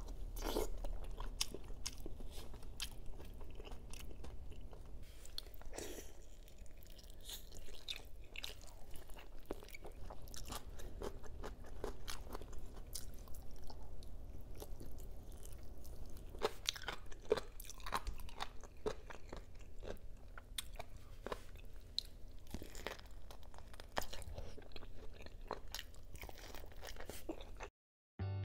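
A person chewing and biting into adobo-braised pork and chicken close to the microphone: a steady run of wet smacks and crisp clicking bites at an uneven pace. Near the end it cuts out briefly and guitar music begins.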